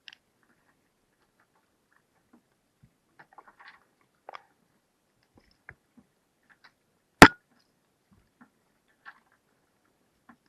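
Scattered faint clicks and rustles, with one sharp, loud knock about seven seconds in.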